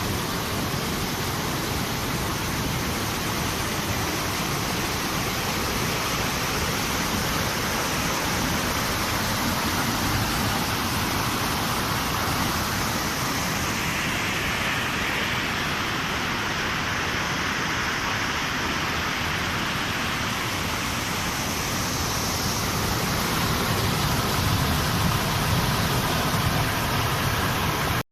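Overflowing lake water rushing steadily, an even roar of floodwater with no breaks.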